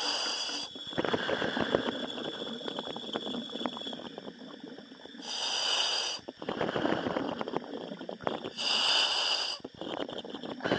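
Commercial diver breathing through a helmet demand regulator, heard over the diving intercom. There are three hissing inhalations about three and a half seconds apart, and rough, crackling exhalation bubbling between them.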